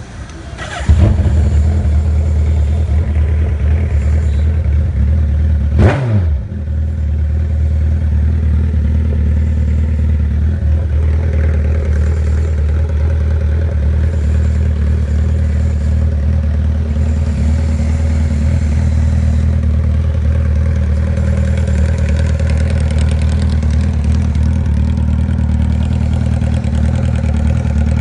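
2013 Suzuki Hayabusa's inline-four engine breathing through a custom megaphone exhaust, firing up about a second in and settling into a steady idle. There is one quick throttle blip around six seconds in.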